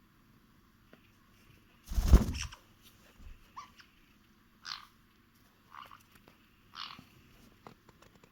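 A loud rustling thump about two seconds in, then four short raspy calls from caique parrots, about a second apart.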